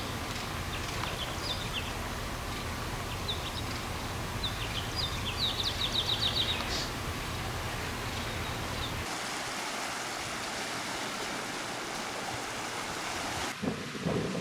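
Small birds chirping over a steady rushing background noise, with a fast trill of repeated notes about six seconds in. The birdsong stops about seven seconds in and the rushing noise runs on alone.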